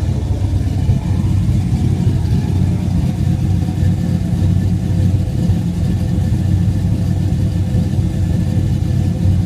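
Low-compression supercharged LT1-based 383 stroker V8 running at a steady idle, heard at its dual tailpipes, during early tuning to get the new engine to idle.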